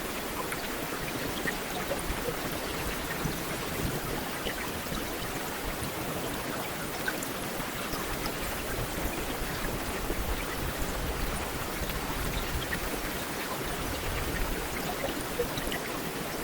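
Heavy rain falling steadily on a street, a dense even hiss with scattered individual drop ticks.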